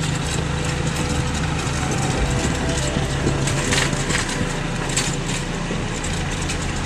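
Small motorcycle engine running steadily while riding, with road and wind noise and a few short knocks about four and five seconds in.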